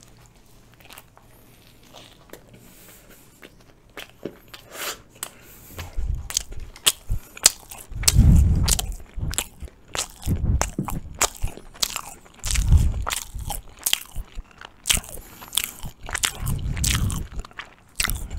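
Close-miked chewing of Turkish flatbread with ajvar: fairly quiet at first, then from about six seconds in a run of crisp crunching clicks with deeper low thuds between them.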